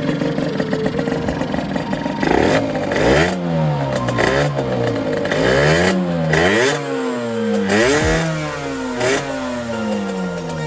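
Honda NS1's small two-stroke single, bored up with a 62.9 cc big-bore kit, idling steadily and then revving up and dropping back several times, with a long slow fall in pitch near the end.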